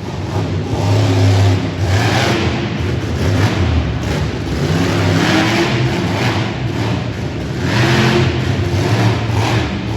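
Monster truck engine revving hard, its pitch and loudness rising and falling in repeated surges.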